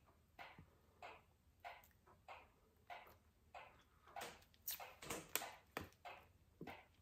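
Faint, wet chewing of a gummy candy, soft mouth smacks about every half second or so, a little louder and quicker after the middle.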